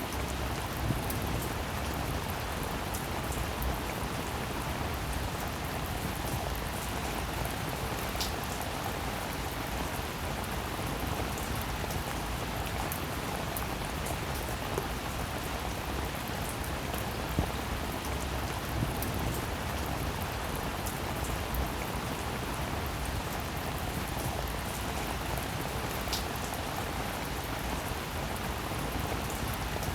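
Steady rain falling, an even hiss with scattered sharper taps of individual drops.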